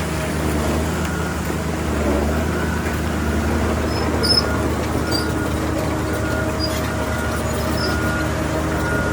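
Heavy diesel earthmoving machinery running steadily under a low, even engine hum, with a faint short high tone repeating about once a second.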